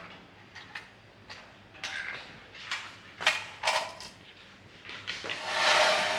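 Handling and working sounds: a series of separate knocks and clicks, then a longer scrape about five seconds in.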